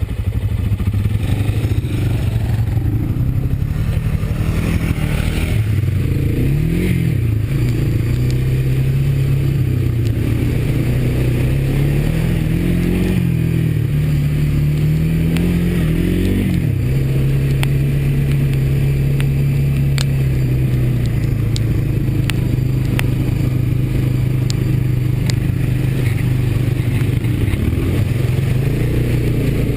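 Single-cylinder four-stroke Honda ATV engine running in gear at low speed through deep water and mud. It revs up and falls back a few times in the first half and then holds a steady pull, with scattered sharp clicks and clatter later on.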